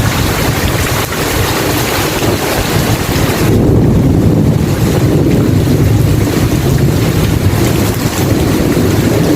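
Steady heavy rain, joined about a third of the way in by a low, drawn-out rumble of thunder that rolls on to the end.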